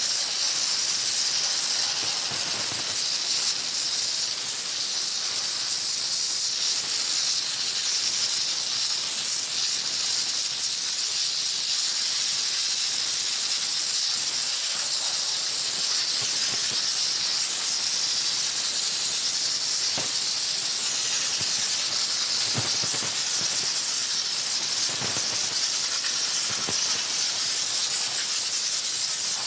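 High-pressure steam jetting steadily from the spray gun of a 20-bar LPG-fired steam car wash machine: a continuous high hiss.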